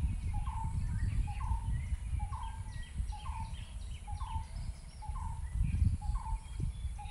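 A bird calling over and over, a short rising-and-falling note about once a second, over a low, uneven rumble.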